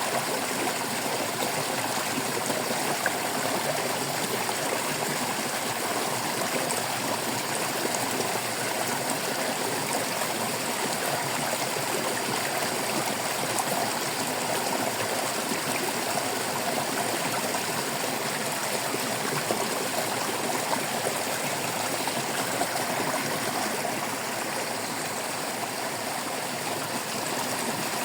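Shallow stream water flowing and babbling steadily over rocks, a continuous trickling and gurgling rush.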